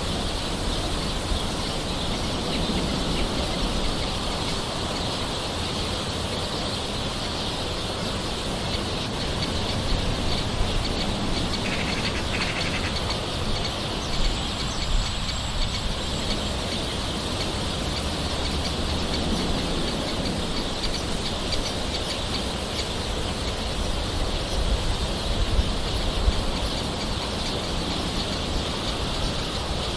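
Steady gentle rain with birds calling now and then over it.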